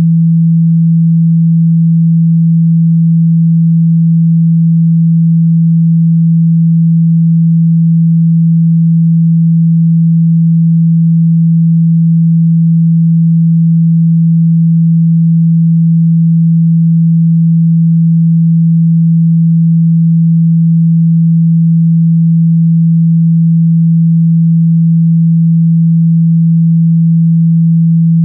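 A single steady 165 Hz sine tone, held unbroken at a constant loud level. It is a speaker-cleaning tone, played to shake dust and water out of a phone or earphone speaker.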